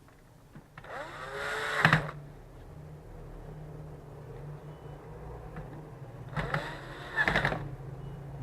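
Small electric screwdriver driving screws into a laptop's top cover: two short runs, the motor's whine rising in pitch and stopping abruptly as each screw seats. A steady low hum sits underneath.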